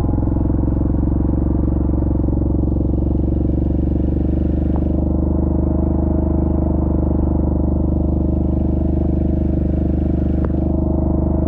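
Yamaha Grizzly ATV's single-cylinder four-stroke engine running steadily under way, its pitch holding level. Two faint clicks, about five and ten seconds in.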